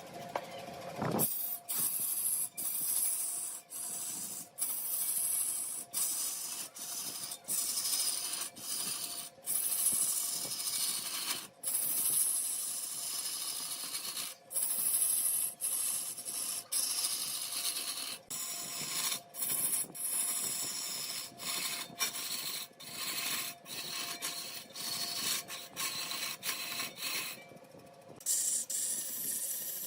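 Mahogany spinning on a large wood lathe while being worked, a steady scraping hiss over the machine's faint hum, broken by many brief dropouts and a short lull near the end.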